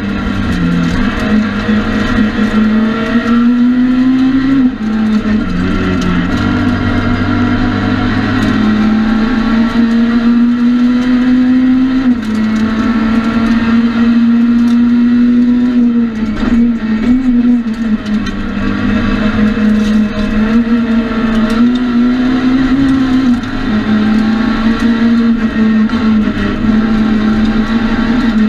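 Citroën C2 R2 Max rally car's four-cylinder engine running hard, heard from inside the stripped cabin: its pitch climbs under acceleration and drops again at gear changes and lifts, over and over.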